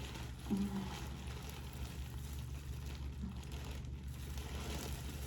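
A steady low hum of room tone, with a brief murmured voice about half a second in.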